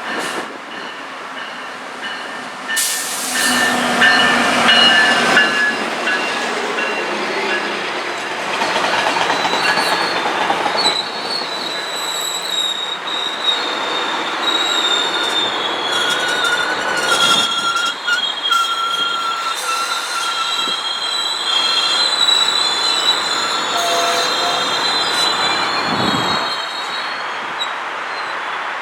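GO Transit commuter train moving through the station, steel wheels squealing on the rails over a steady rolling rumble. The sound grows about three seconds in, and high, wavering squeals come and go through the rest of it.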